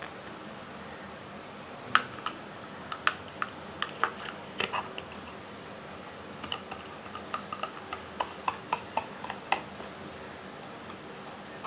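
Irregular light plastic clicks and taps, in two runs, from a white plastic kitchen exhaust fan's blades and housing being handled, over a steady low hiss.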